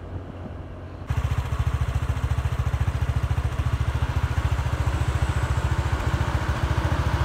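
Truck diesel engine running close by with a fast, steady low throb. It cuts in abruptly about a second in.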